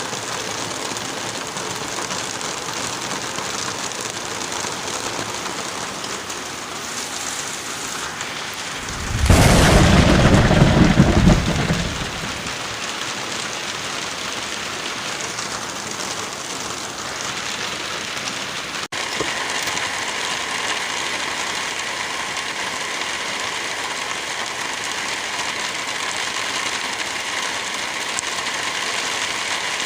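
Steady rain hiss with one loud clap of thunder, low and heavy, about nine seconds in and lasting some three seconds. Near the middle the rain sound changes abruptly, then runs on as a steady hiss.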